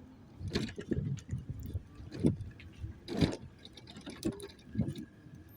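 Mobility scooter jolting over pavement: a series of irregular knocks and rattles over a low rumble.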